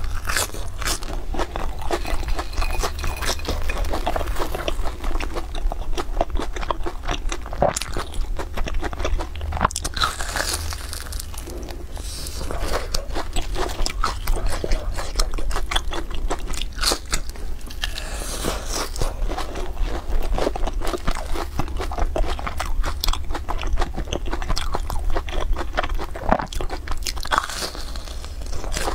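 Close-up crunching and chewing of deep-fried breaded rolls, crisp crackling bites over moist chewing, with a steady low hum underneath.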